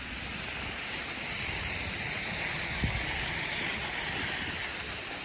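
Snowy city-street traffic noise: the tyre hiss of a passing vehicle swells through the middle and fades, over a low rumble, with a single short thump about three seconds in.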